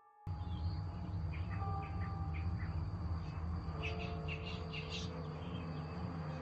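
Outdoor sound through a doorbell camera's microphone: birds chirping in short calls, in two spells, over a steady low rumble.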